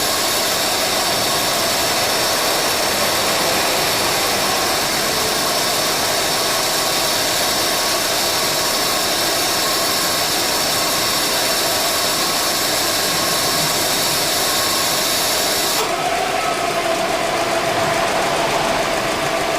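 A 2009 Subaru Forester's A/C compressor runs with an abnormal noise over the running engine, a sign of a refrigerant leak leaving the compressor oil unable to mix with the refrigerant. About sixteen seconds in the sound changes abruptly: the high hiss drops away and a lower steady tone comes in. This fits the compressor cycling, which is said to start only twice a minute.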